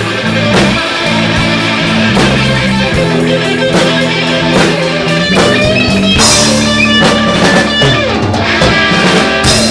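Live blues-rock band playing an instrumental passage between verses: electric guitar over bass and a drum kit keeping a steady beat, with a cymbal crash about six seconds in.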